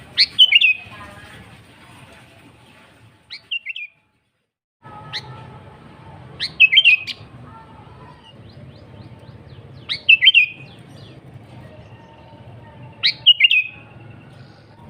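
Sooty-headed bulbul singing short, bubbly whistled phrases, one about every three seconds, over a faint low background noise. The sound drops out completely for under a second about four seconds in.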